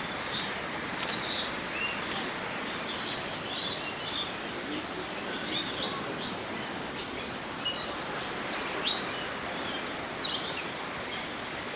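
Several birds chirping, with many short, high calls scattered over a steady background hiss. One call about nine seconds in is louder than the rest.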